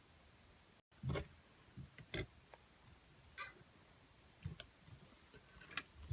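A few faint, scattered knocks and clicks, about a second apart.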